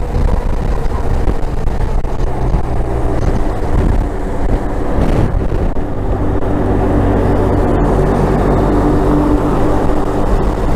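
Benelli TRK 502's parallel-twin engine droning steadily under way, heard through heavy wind rumble on the microphone.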